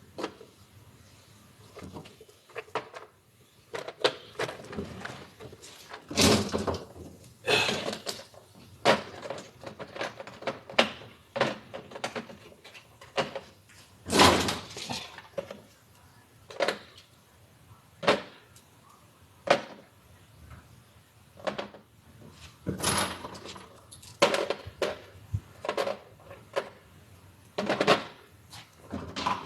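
Sockets from a spilled socket set being put back into their case: irregular sharp metal clicks and clatters, with a few louder knocks.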